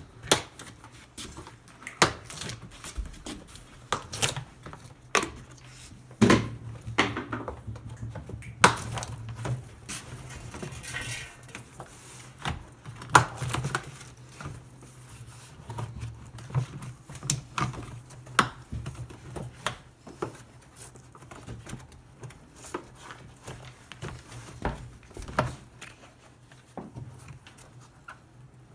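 Catches on the top cover of a Whirlpool washer's outer tub being pressed and pried loose one after another: irregular sharp clicks, snaps and knocks over a low steady hum.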